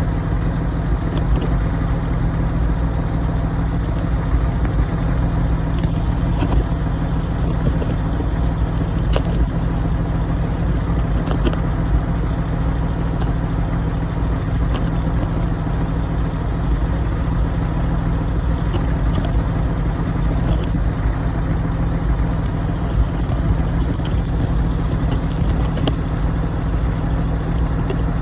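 Porsche 996's flat-six engine idling steadily through an aftermarket S66 variable-valve muffler, an even low exhaust note with no revving and a few faint clicks.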